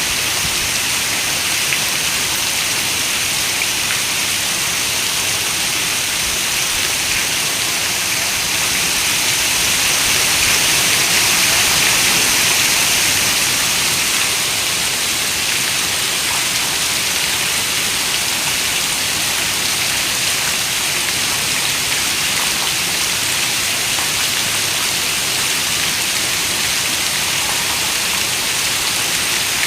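Heavy rain falling on a window: a steady dense hiss of raindrops, swelling slightly about ten seconds in and easing again a few seconds later.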